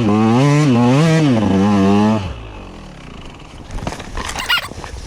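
KTM EXC 125 two-stroke dirt bike engine revving up and down in quick surges, about two a second, then cutting off abruptly a little over two seconds in. Faint clicks and brief high squeaks follow.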